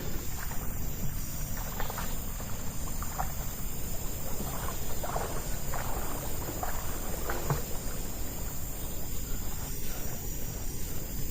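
Outdoor nature ambience: a steady high insect drone over a constant low rumble, with scattered brief sounds through the first two-thirds.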